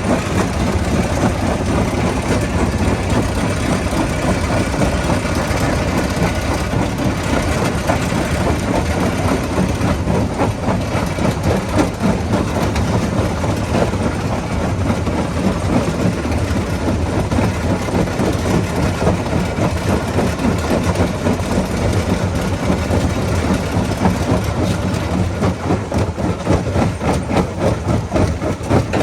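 Rock crusher running under load: a steady heavy engine hum under a continuous clatter of stones being knocked and broken.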